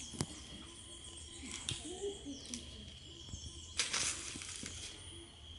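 Quiet outdoor ambience with a steady high-pitched insect trill, a few light knocks, and a brief rustle about four seconds in.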